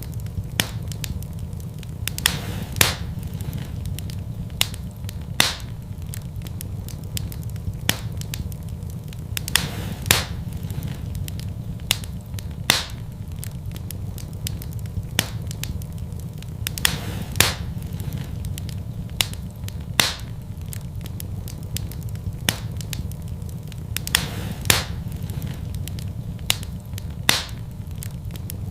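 Fire burning in a fireplace, crackling with irregular sharp pops every second or so over a steady low rumble.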